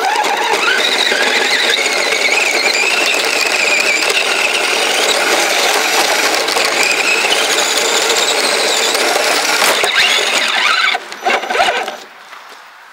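Kyosho Blizzard RC snowcat's drivetrain whining under power for about eleven seconds, the pitch wandering up and down with the throttle, then cutting off with a few short bursts near the end.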